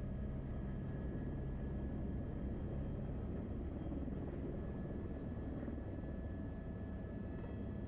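Helicopter engine and rotor running steadily, heard inside the cockpit: a low drone with a thin steady whine above it.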